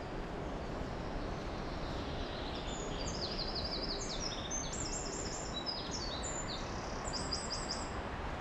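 A small songbird singing bursts of rapid, high, repeated notes, starting a couple of seconds in and stopping just before the end, over a steady outdoor rush of background noise.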